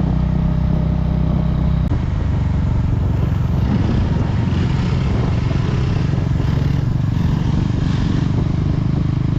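KTM Duke 390's single-cylinder engine running as the motorcycle is ridden, loud and steady, its note shifting about two seconds in.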